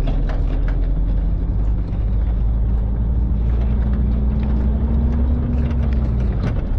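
Car engine running steadily at low speed on a snowy road, its note rising slowly, holding, then dropping away near the end, with scattered short crackles over a steady rushing noise.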